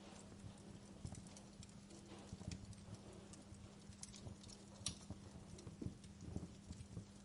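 Wood fire in a fireplace crackling, with faint irregular pops and snaps over a steady low hum.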